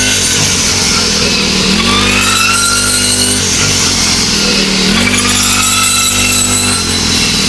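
An engine running steadily, its pitch dipping and recovering about every three seconds as if briefly loaded.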